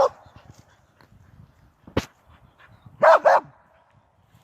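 Dog barking: one bark at the start, then two quick barks about three seconds in. A single sharp click sounds about two seconds in.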